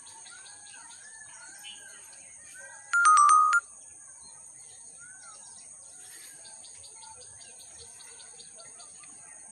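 Birds calling outdoors with short repeated arched notes over a steady high-pitched whine and rapid ticking. About three seconds in, a loud electronic beep sequence sounds for under a second, a few stepped tones like a phone alert.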